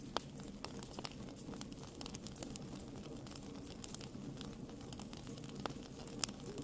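Wood fire in a fireplace crackling: irregular small snaps and pops over the low, steady rustle of the flames, with a sharper pop just after the start and another near the end.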